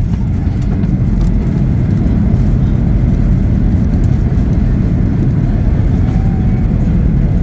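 Steady loud low rumble of a Boeing 737-800's engines and airframe as heard inside the passenger cabin.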